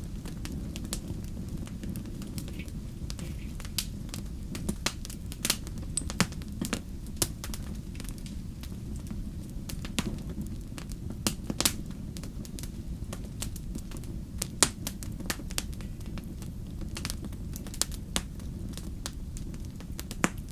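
Fire crackling: a steady low rumble with frequent sharp pops and snaps at irregular intervals.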